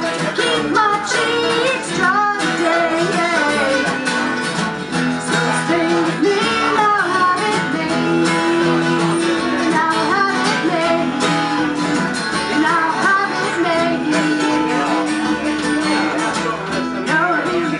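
A live band performing a song: strummed acoustic guitar with a voice singing over it.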